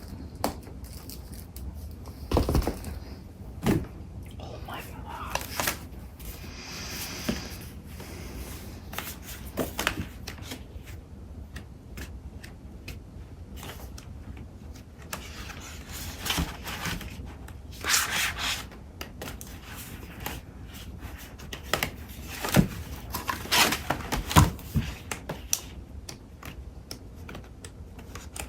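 Paper and card stock being handled and sorted by hand: sheets rustling and sliding against each other, with scattered light knocks as items are picked up and set down.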